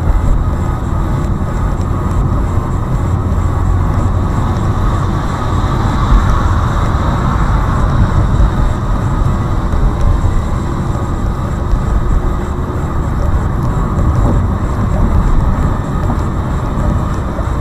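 Steady rumble of a car on the move, engine and road noise picked up by a dashcam microphone.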